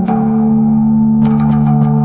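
Instrumental Arabic-style relaxation music: plucked oud notes over a steady low held drone, with the plucks coming faster in the second half.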